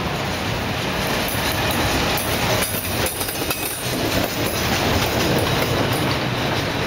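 Loaded autorack freight cars rolling past close by: the steady noise of steel wheels running on the rails.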